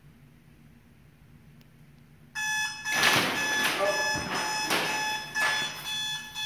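Faint room tone, then a phone alarm goes off suddenly a little over two seconds in and keeps ringing in a repeating pattern of tones.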